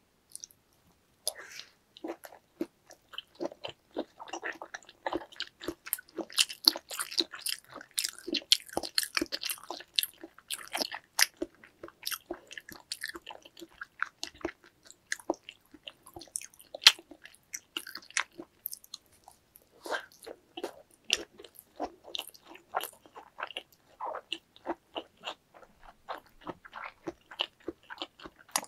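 Close-miked eating sounds of a person biting and chewing giant raw salmon nigiri sushi: wet, sticky mouth smacks and rapid small clicks in quick succession, with a couple of brief pauses.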